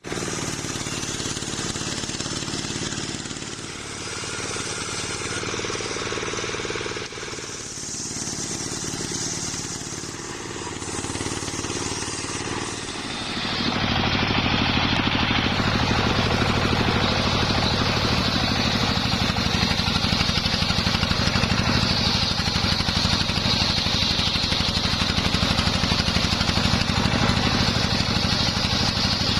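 Engine-driven homemade circular saw (serkel rakitan) running steadily; about 13 seconds in it grows louder and a steady high hiss sets in as the blade rips through waru wood.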